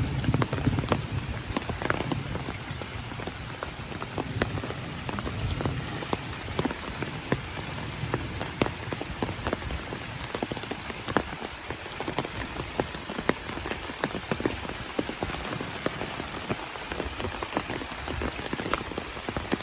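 Heavy monsoon rain falling steadily, with many sharp drops pattering close by over a continuous hiss; a low rumble in the first couple of seconds fades out.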